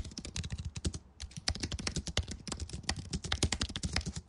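Rapid computer keyboard typing: a dense run of irregular keystroke clicks, several a second, with a short lull about a second in.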